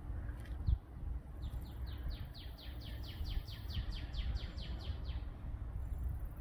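A songbird singing a quick series of about sixteen downslurred notes, roughly four to five a second, starting about a second and a half in and stopping near five seconds. A low rumble runs underneath.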